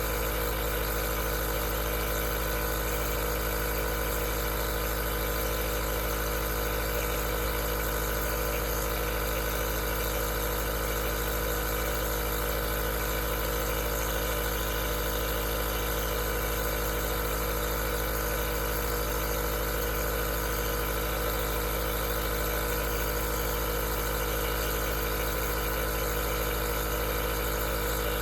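Aerosol nebulizer's compressor running steadily: an even motor hum with a hiss of air throughout.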